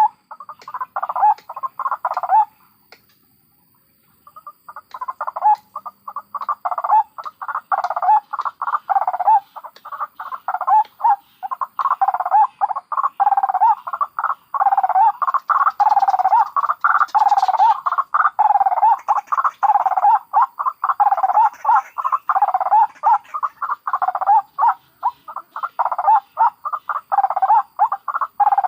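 White-breasted waterhens calling: rapid, repeated croaking "ruak" notes. The calling breaks off for about two seconds near the start, then goes on without a pause.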